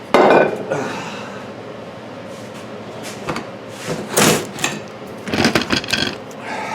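Clunks, knocks and scrapes of metal tools and a lawn tractor wheel being handled while prying at a stuck tire bead. There is a loud knock right at the start, then more scraping and knocking about four seconds in and again between five and six seconds.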